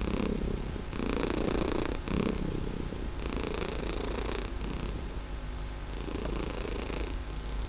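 A domestic cat purring steadily, the purr swelling and easing in a slow, uneven rhythm as it breathes in and out.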